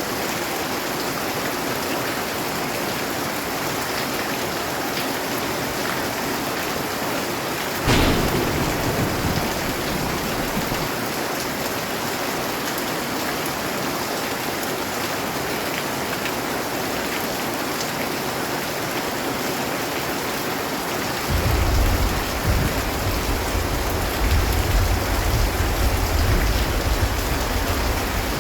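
Steady rain falling, with thunder: a sudden crack about eight seconds in that trails off into a short rumble, then a long low rolling rumble that sets in about three-quarters of the way through.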